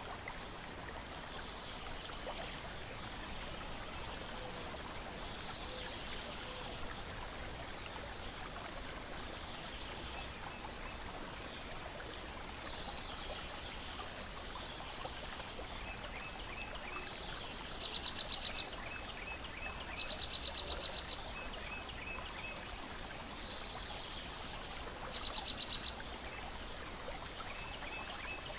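Lake water lapping steadily against a shore and deck, with faint bird chirps every few seconds. Three rapid, loud trills stand out about two-thirds of the way through, with strings of short high ticks between them.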